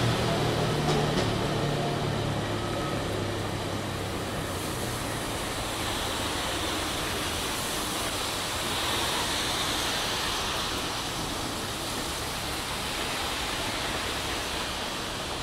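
Passenger train rolling away on the track. A low hum fades out over the first few seconds, leaving a steady hiss.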